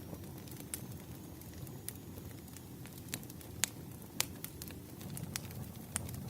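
Firewood burning: a steady low rush of flames with irregular sharp crackles and pops, the two loudest pops coming a little past halfway.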